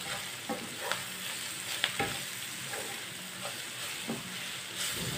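Sliced bitter gourd, onion, tomato and ground spices sizzling steadily in oil in a non-stick frying pan, stirred with a wooden spatula. Soft, irregular scrapes and taps come from the spatula against the pan. The spices are being fried in oil with no water added.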